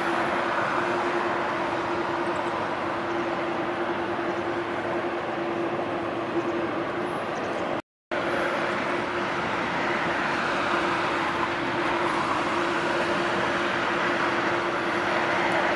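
Jet airliner engines running with a steady, loud rush and a constant low hum. The sound drops out completely for a moment about halfway through, then carries on as before.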